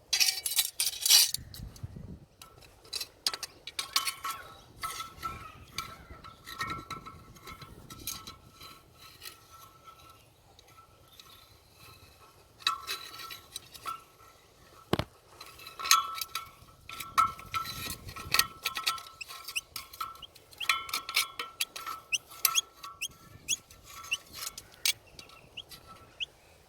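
Irregular scraping, clinking and rattling of hands and objects working at a drain to free a trapped small bird, with a run of short, high, rising chirps near the end.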